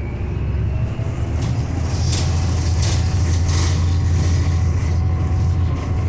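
Inside a moving city bus: the engine and drivetrain run with a steady, loud low drone as the bus drives along, with a few short high-pitched noises in the middle.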